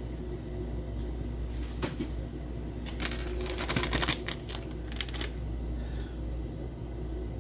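Food being poured and scraped into a cooking pot: a quick run of clattering clicks and scrapes about three seconds in, with a few single knocks before and after, over a low steady hum.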